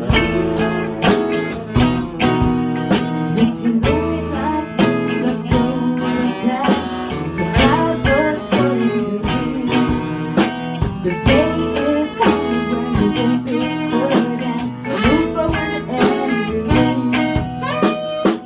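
Band music with guitar over a steady drum beat.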